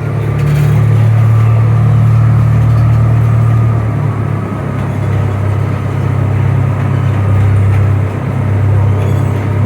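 A narrow-gauge zoo train running along its track, heard from on board: a loud, steady low rumble that dips slightly now and then.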